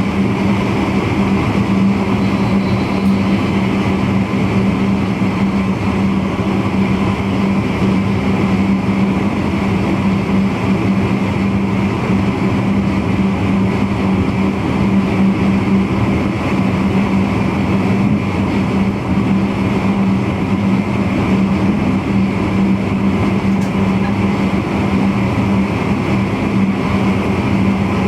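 Steady running noise in the driver's cab of a VIRM double-deck electric intercity train under way: wheels on rail and drive equipment, with a constant low hum.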